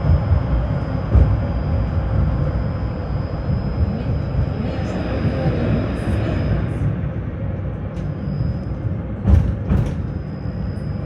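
Tram running between stops, heard from inside the passenger car: a steady low rumble of wheels on rails with a thin high whine, and two sharp knocks about nine seconds in.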